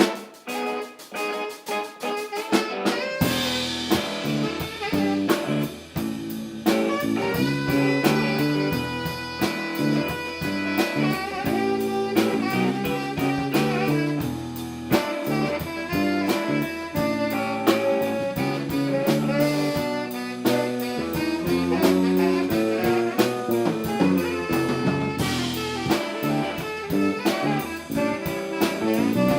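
Live band playing a jazz-blues groove: a guitar strums a rhythm alone at first, then drums, bass and saxophone come in together about three seconds in and play on steadily.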